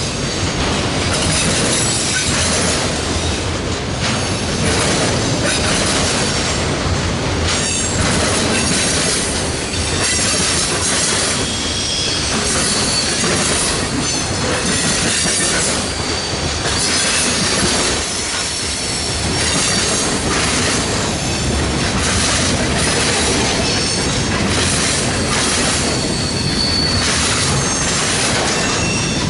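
Freight train rolling past, its steel wheels making a steady loud rumble and clatter on the rails, with several brief high-pitched wheel squeals.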